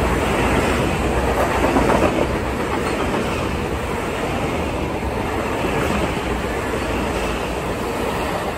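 Metro-North M8 electric multiple-unit train passing close by at speed: a loud, steady rush of wheel-on-rail noise.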